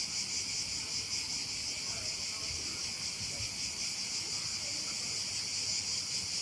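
A steady, high-pitched chorus of insects: a continuous shrill buzz with a fast pulsing texture and no breaks.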